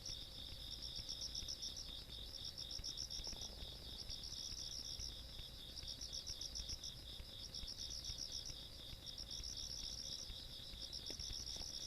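A chorus of night insects chirping together in the countryside. One keeps up a steady pulsing chirp several times a second; a higher-pitched one chirps in trains of about a second with short pauses between.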